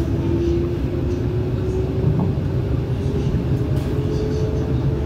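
MTR East Rail Line R-Train electric multiple unit running along the line: a steady low rumble of wheels on track with a faint whine that rises slowly in pitch.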